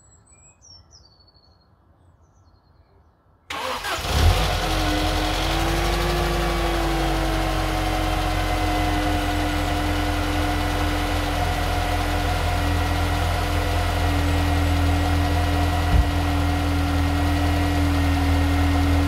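Faint bird chirps, then about three and a half seconds in a Mercedes W203's M271 supercharged four-cylinder petrol engine cranks briefly, catches with a short flare and settles into a steady idle with a steady tone above it. This is the engine's first start after a new timing chain was fitted, and the owner finds it sounds halfway normal. A single brief thump comes near the end.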